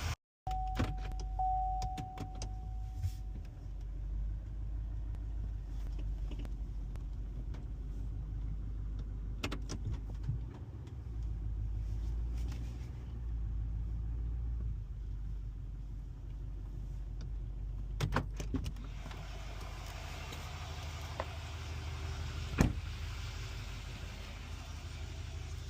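Vehicle engine running steadily with a low rumble, with a short steady beep just after the start and a few sharp clicks and knocks later on.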